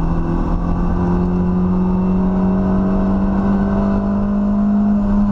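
Rally car's engine heard from inside the cockpit, accelerating in one gear, its note rising slowly and steadily over road and cabin rumble.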